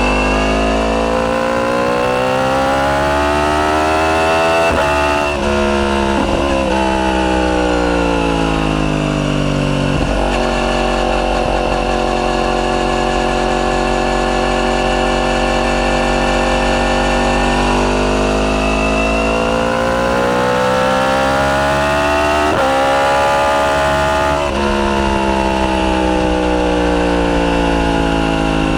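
Yamaha YZF-R1's crossplane inline-four running through a straight-through Akrapovic full titanium exhaust with no catalyst, under way. The engine note rises, drops sharply at an upshift about five seconds in, then falls away. It holds steady for several seconds, climbs again through another upshift, and falls as the throttle is rolled off near the end.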